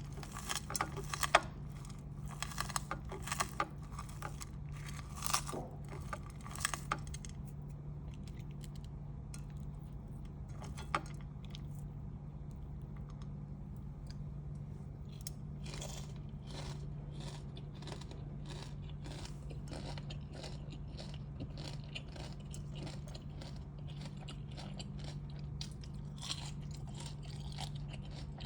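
Close-up crunching and chewing of singju, a Manipuri raw-vegetable salad, over a steady low hum. The loudest, sharpest crunches come in the first seven seconds; from about halfway on the chewing is steadier and softer.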